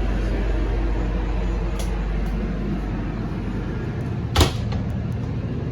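Steady low rumble inside a railway passenger coach, with a sharp knock about four seconds in and a fainter click a couple of seconds earlier.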